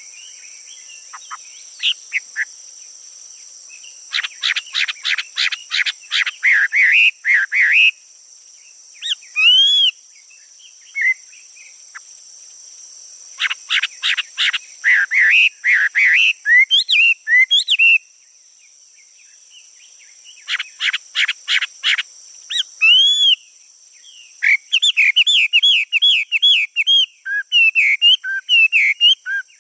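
A male songbird singing in four loud bouts, each opening with a fast run of repeated notes and going on into varied whistled phrases, over a steady high-pitched drone of insects.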